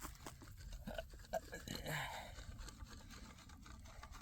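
Faint scraping and crunching of soil being worked by hand at a trap set, with scattered small clicks and a brief louder rustle about two seconds in.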